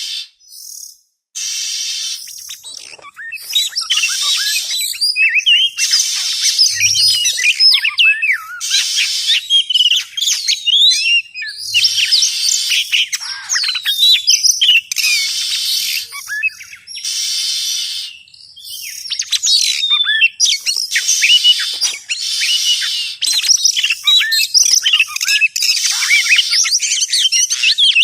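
Oriental magpie-robin (kacer) singing a lure song: a fast, continuous run of varied whistled notes that swoop up and down, broken every few seconds by short harsh, rasping stretches.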